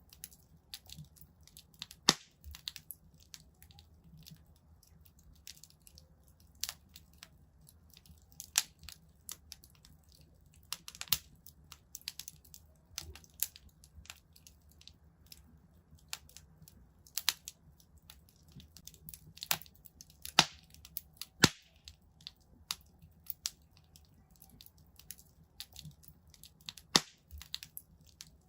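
Wood fire crackling in a fireplace: irregular sharp snaps and pops, a few of them much louder than the rest, over a faint low rumble.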